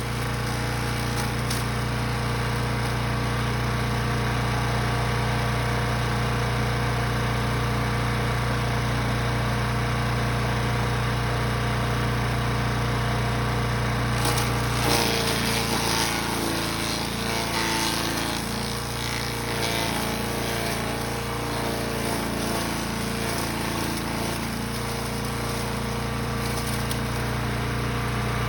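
Gas-engine Brush Master 3-in-1 wood chipper/shredder running steadily at full speed. About halfway through, a rough, irregular crunching and grinding joins the engine as material is fed in and chewed up.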